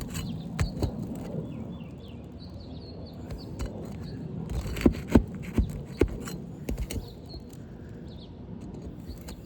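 Pry bar knocking and scraping at asphalt roof shingles to break them loose, with several sharp knocks close together around the middle. Birds chirp in the background.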